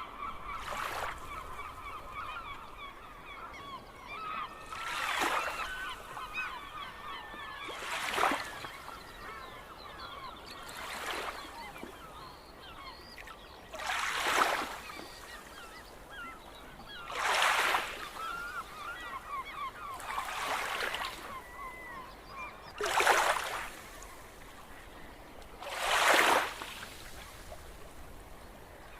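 Seagulls calling: a busy chorus of short squawks and cries, thinning out toward the end. About every three seconds a short rush of noise swells and fades, the loudest sound each time.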